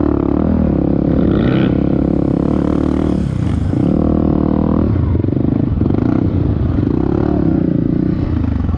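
Off-road motorcycle engine running hard, its pitch dropping and climbing again several times as the throttle is eased and reopened.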